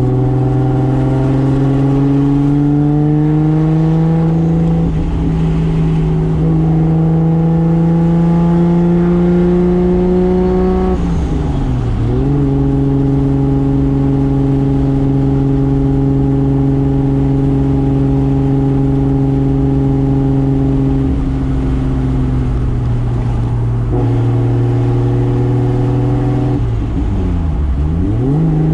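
Toyota Soarer's single-turbo 2JZ straight-six under load, its note climbing steadily for about ten seconds. About eleven seconds in the revs dip sharply and come straight back, then the engine holds one steady pitch for several seconds; near the end the revs dip sharply and recover again.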